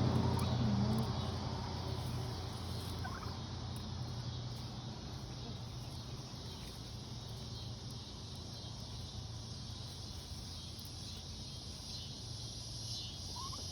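Tom turkeys calling softly, with a few short rising notes, over a steady low hum. A passing car fades out during the first second or two.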